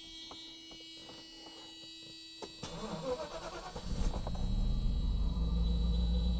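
1988 Mercedes-Benz 560 SEL's 5.6-litre V8 cold-starting: a click of the key, the starter cranks for about a second and a half, and the engine catches about four seconds in and settles into a steady fast cold idle.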